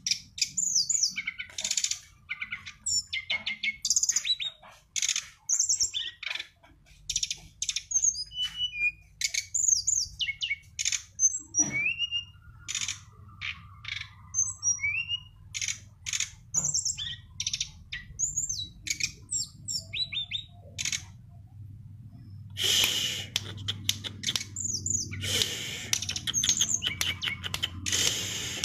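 Small songbird singing a fast run of short, high chirps and whistled notes, some sliding up in pitch, broken by two bursts of harsher rapid chatter about two-thirds of the way through. A faint low hum sits underneath.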